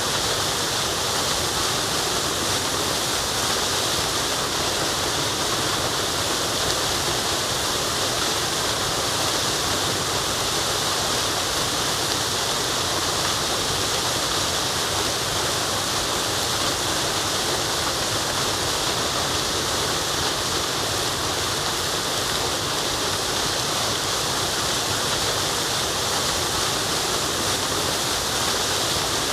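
Waterfall, a steady rush of falling water with no change in level, its hiss strongest in the upper range.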